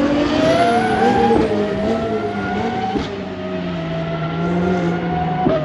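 Race car engines at full throttle on the circuit, rising in pitch through the gears with sudden drops at upshifts, about a second and a half in, at three seconds and again near the end.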